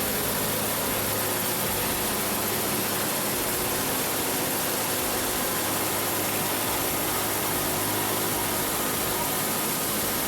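Log-rounding lathe running steadily as it turns a log into a cylinder: a constant machine hum under an even hiss, with no change in pitch or level.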